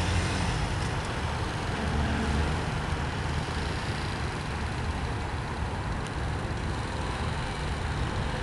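Honda CBR125R's single-cylinder 125 cc engine running at low speed as the bike rides off and pulls up, under a steady low rumble.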